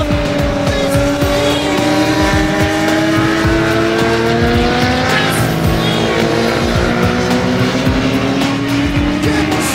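Sport motorcycle engines running hard on a race track, one steady engine note climbing slowly in pitch.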